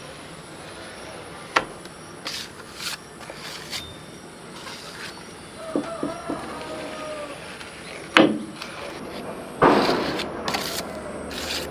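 Irregular knocks and scraping, as of tools and parts being handled, with a sharp knock about eight seconds in and a longer scrape near ten seconds.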